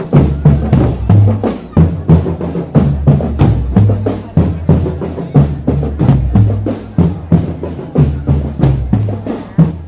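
Marching drum band playing a steady percussion beat, with deep bass drums under snare drums.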